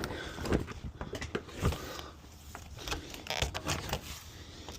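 Scattered light scrapes and rustles with a few soft knocks, like objects or bags being handled.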